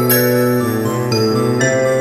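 Background music: a slow melody of sustained, bell-like chiming notes, a new note about every half second.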